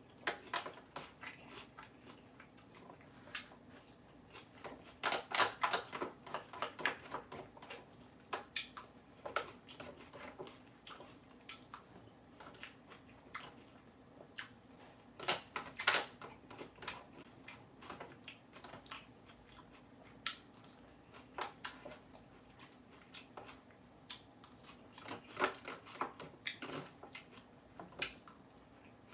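A person chewing crisp salad lettuce close to the microphone: bursts of crackly crunches with quieter gaps between mouthfuls.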